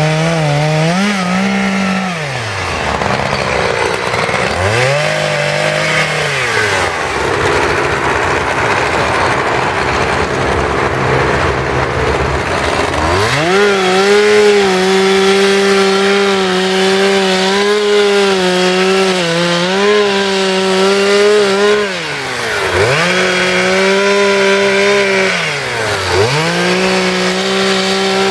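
Two-stroke chainsaw running at high revs and dropping back toward idle several times. About a third of the way in, its pitch sinks and turns rougher while it works under load, cutting into wood.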